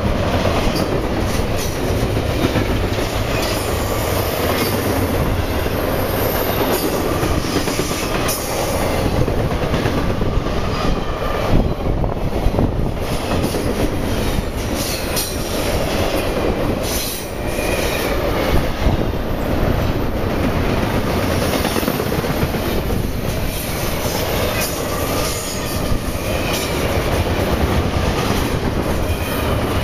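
Double-stack intermodal freight cars of a CSX train rolling past: a steady rumble of steel wheels on rail with repeated clicking over rail joints and a faint high wheel squeal now and then.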